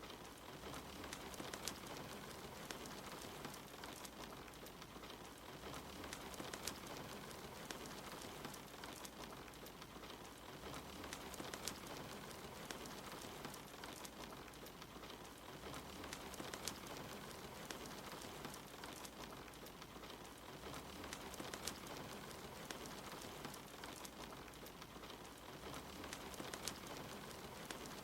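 Soft steady rain mixed with the scattered crackling of a wood fire in a fireplace.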